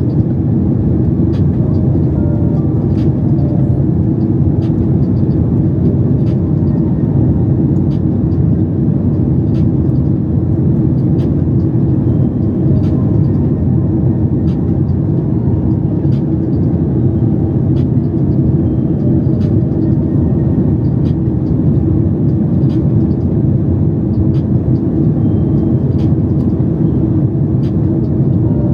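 Steady, loud engine and airflow rumble of a Boeing 737 MAX 8 with CFM LEAP-1B engines, heard inside the passenger cabin. Faint light ticks come through about once a second.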